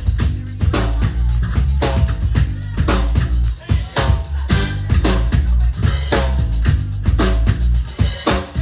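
Live band playing an instrumental funk groove, the electric bass out front over a drum kit keeping a steady beat with kick drum and rimshots.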